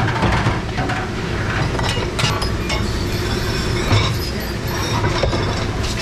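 Commercial dish machine running with a steady rumble, with scattered clinks of dishes and racks.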